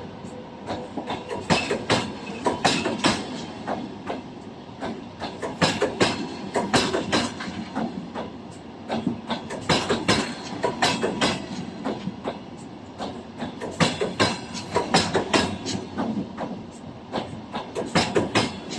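Passenger train coaches rolling past, wheels clacking over rail joints in clusters of beats that come about every four seconds over a steady rumble.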